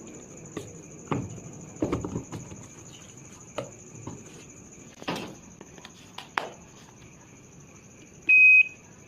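A series of clicks and knocks, then one short, high electronic beep near the end: the washing machine's control panel beeping.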